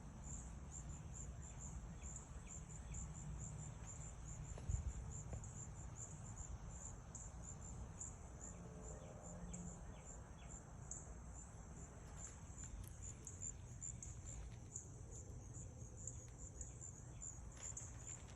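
Faint insects chirping in a steady, evenly pulsed high trill, over a low outdoor rumble, with one short knock about five seconds in.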